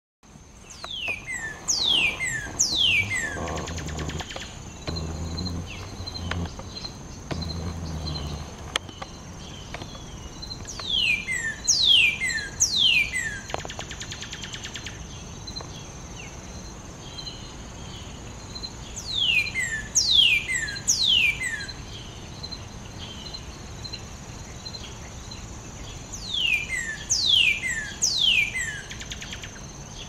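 A bird gives sets of three clear whistles, each sliding steeply down in pitch, four times over, with several seconds between sets. A steady high-pitched hum runs underneath.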